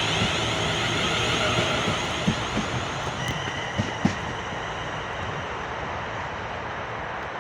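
Class 350 electric multiple unit running along the line, its noise slowly fading as it draws away, with a few sharp clicks about two to four seconds in.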